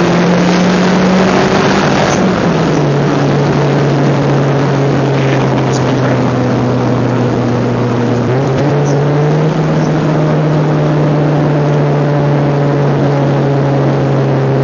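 2003.5 Mazdaspeed Protege's turbocharged four-cylinder engine, heard from inside the cabin, droning loudly and steadily through a snapped exhaust while driving in third gear. The pitch dips about two seconds in and steps up again a little past the middle.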